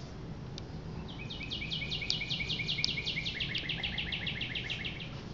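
A songbird trilling, a quick run of high chirps at about six a second that steps down in pitch halfway through. Underneath, the steady low hum of a small 42-inch Bahama ceiling fan running on low.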